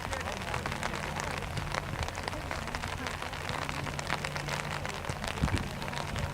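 Rain pattering close to the microphone as a dense run of small ticks, under a steady low hum. One sharp thump comes about five and a half seconds in.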